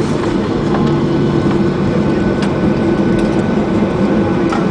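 Steady jet-engine and airflow noise heard inside an airliner cabin, a dense rumble with a few held hum tones, during the arrival at the airport.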